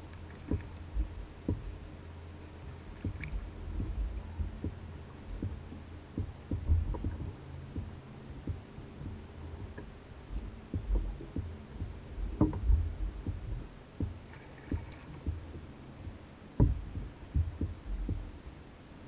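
Water lapping and slapping against the hull of an Old Town Guide 119 canoe as it bobs on the lake, giving irregular low thuds and occasional sharper knocks over a steady low rumble.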